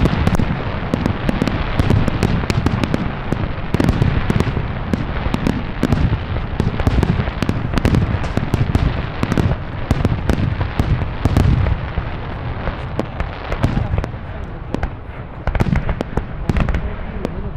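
Fireworks display going off in a continuous barrage. Many rapid sharp cracks and crackles ride over repeated deep booms, with no break.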